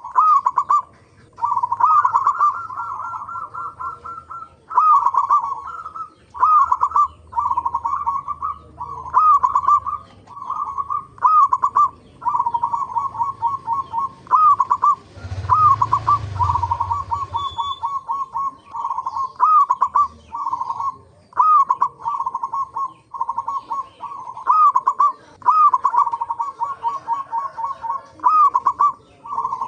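Zebra doves (local perkutut) cooing: phrase after phrase of quick, chattering notes broken by rising-and-falling hoots, repeating every second or two. About halfway through, a brief rushing noise sits under the calls for a second or two.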